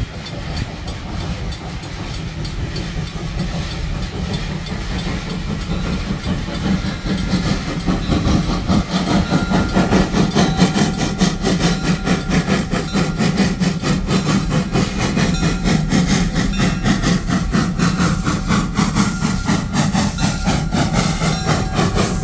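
Narrow-gauge steam train running by, with wheels clicking quickly over the rails, a low steady rumble and steam hissing. It grows louder over the first ten seconds as it draws near, then holds.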